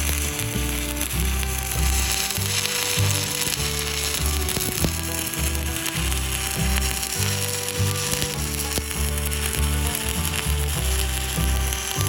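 Stick welding arc with a 7018 rod, crackling steadily as the bead is run, over background music with a stepping bass line.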